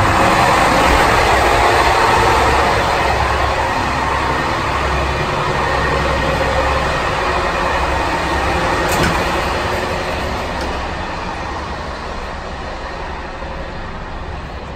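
Loud, steady running noise of a moving Corail passenger coach heard in the gangway between coaches: a rumble and rush of wheels on the track. There is a sharp click about nine seconds in, and the noise eases off over the last few seconds.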